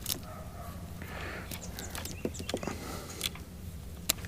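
Light scattered clicks and handling noise as a wiring connector to a boat remote's trim switch is worked loose and unplugged, over a low steady hum.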